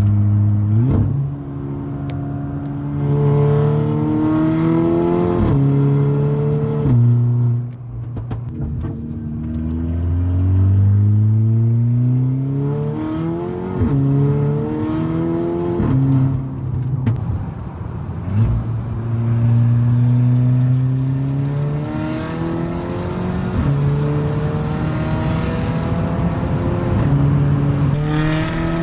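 Turbocharged Volkswagen engine making repeated full-throttle pulls, its pitch rising through each gear and dropping sharply at every upshift. It is running cleanly on freshly fitted one-step-colder spark plugs after a cylinder-3 misfire, and the driver reports zero knock and that it feels great.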